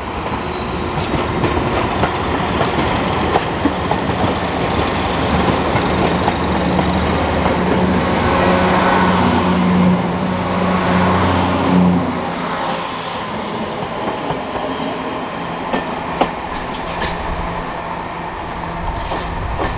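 Diesel train on the move: a steady engine hum until about twelve seconds in, when it drops away suddenly. After that come wheels clicking over rail joints and a thin high squeal from the wheels on the track.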